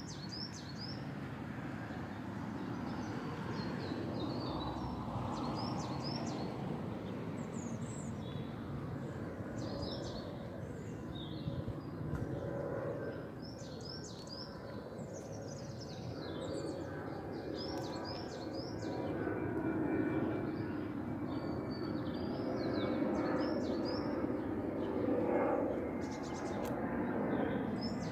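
Birds singing, short high chirps repeating throughout, over a steady outdoor background rumble.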